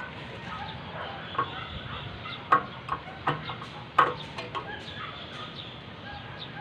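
Irregular sharp knocks and clicks, with the two loudest about two and a half and four seconds in.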